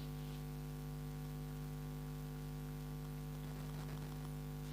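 Steady electrical mains hum with faint background hiss, a fault in the recording's audio.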